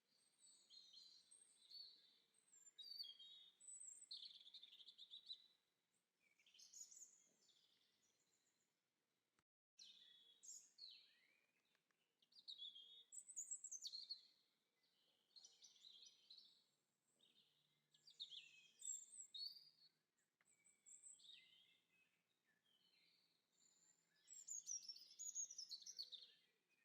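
Faint songbird singing in quick, varied chirping phrases, one after another, with a brief break about ten seconds in.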